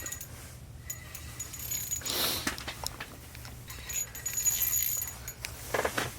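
Scattered light clicks and rustling as a pike is hauled up to a hole in the ice, with a short burst of handling noise about two seconds in and another a couple of seconds later, over a steady low hum.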